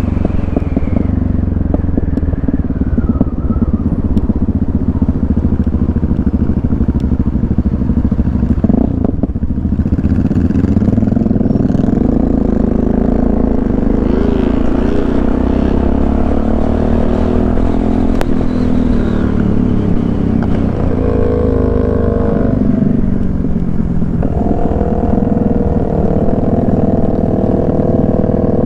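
Motorcycle engine running loudly throughout, its pitch rising and falling several times as the throttle changes, with a brief dip about nine seconds in.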